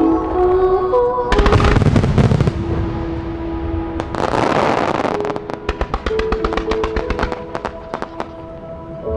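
Aerial fireworks bursting over a melody of held musical notes: a loud burst about a second and a half in, another near the middle, then a long run of rapid crackling.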